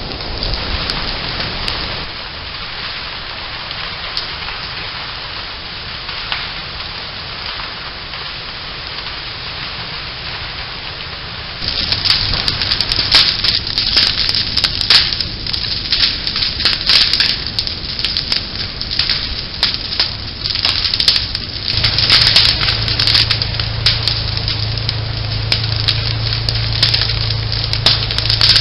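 Prescribed burn crackling and popping through dry brush, picked up by a trail camera's microphone. The crackling jumps much louder about twelve seconds in, with a low steady rumble underneath that grows stronger later.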